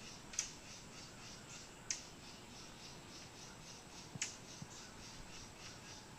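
Towhee calling: three short, sharp, downslurred call notes about two seconds apart.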